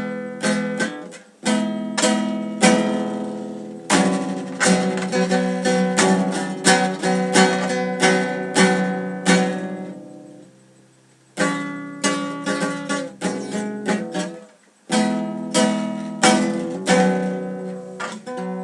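Acoustic guitar playing alone, strummed and plucked chords that ring out, with two brief pauses where the notes die away before it starts again.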